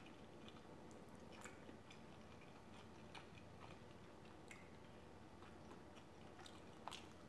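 Faint chewing, with soft mouth clicks every second or so, over near-silent room tone.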